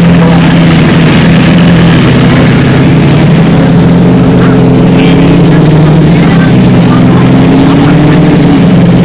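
Car engine idling loudly close by, a steady low drone that wavers slightly in pitch midway.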